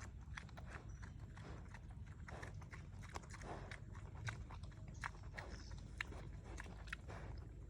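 Irregular light knocks and clicks, several a second, with a few sharper ones in the second half, over a steady low hum.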